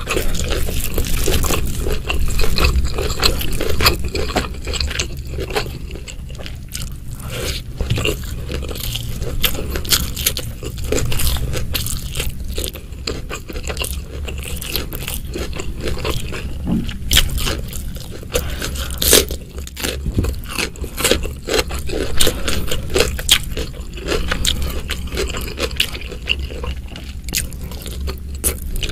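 A person chewing mouthfuls of rice and spicy Indonesian side dishes close to the microphone. Many small wet mouth clicks and crunches come in quick succession.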